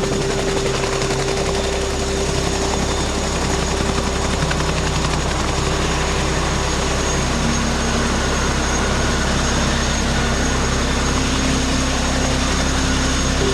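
RAF CH-47 Chinook tandem-rotor helicopter running steadily: a rapid rotor beat under the high whine of its turbine engines.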